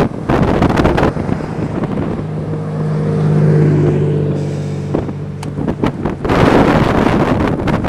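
Strong blizzard wind buffeting the microphone. About two seconds in, a vehicle engine's steady low hum rises above it for a few seconds, then fades, and the wind gusts hard again near the end.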